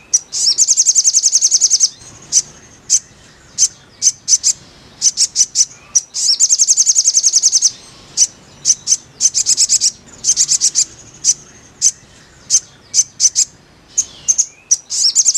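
Sogon (sogok ontong) bird song: high, rapid chattering trills of about a second and a half each, around a second in and again near six seconds in, with many sharp single chirps between them. This is the kind of song recording played as therapy to get a caged sogon singing.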